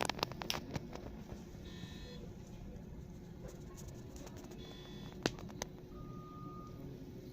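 Hospital medical equipment alarm beeping: a short, high, chord-like beep repeating about every three seconds over a faint steady hum, with a few sharp clicks near the start and around five seconds in.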